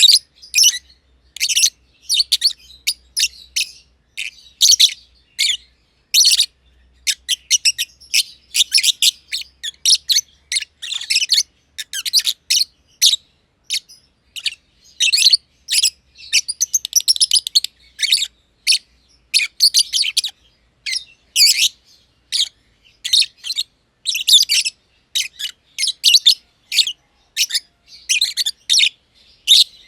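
Masked lovebirds (Agapornis personatus), a green and a green pied, chirping continuously in rapid, high-pitched bursts of short calls with brief pauses between them.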